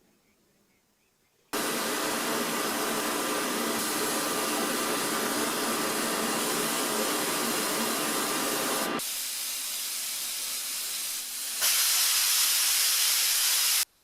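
Pressurised spray hissing steadily. It starts suddenly about a second and a half in, goes softer for a couple of seconds past the middle, then comes back louder and cuts off sharply near the end.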